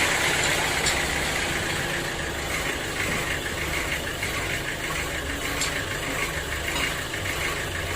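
Sawmill machinery running steadily with a low engine hum and a faint regular ticking.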